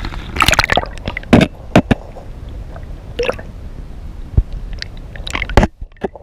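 Water splashing and sloshing, with an irregular series of sharp knocks and clicks.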